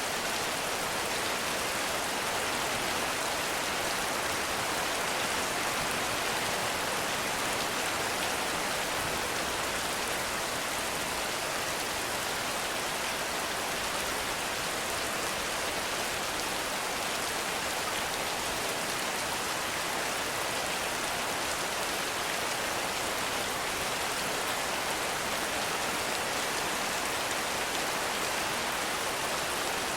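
Heavy rain falling steadily in a forest, a dense, even hiss of drops with no thunder or other events.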